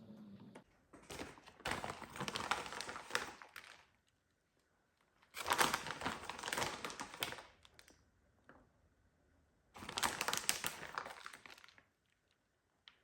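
Crinkling, crackling noise in three bursts of two to three seconds each.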